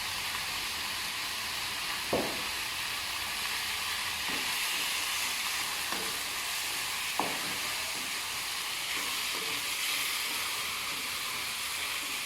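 Chicken pieces frying in a pan with onion and spices, a steady sizzle, while a spatula stirs and knocks against the pan a few times, most sharply about 2 s and 7 s in.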